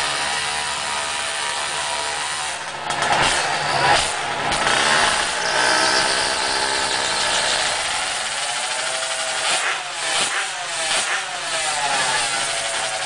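Vehicle engines running and revving, their pitch rising and falling several times in the second half.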